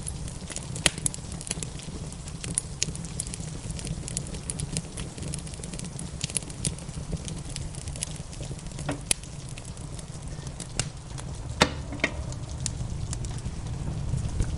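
Wood fire in a fireplace crackling with many irregular sharp pops, a few louder than the rest, over a steady low rumble of rain.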